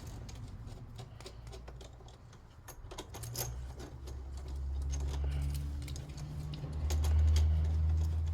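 Small metal parts and tools clinking and clicking as they are handled, with a low rumble that builds from about three seconds in and is loudest near the end.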